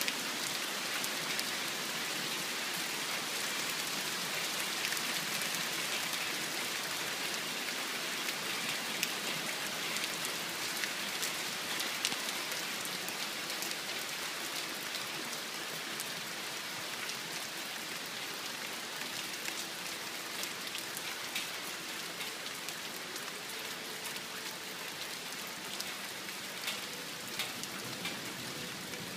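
Heavy rain pouring down in a steady dense hiss, with many individual drops pattering close by.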